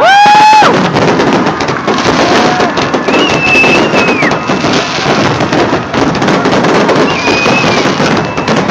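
Fireworks going off in a dense, continuous crackle of many small bangs. A few whistling tones sound over it: one rising at the start, and higher ones partway through and near the end.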